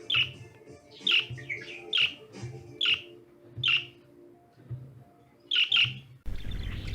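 Budgerigar giving short, sharp chirps, about one a second and a quick pair near the end, over faint background music. Near the end the sound changes to a denser, busier chatter.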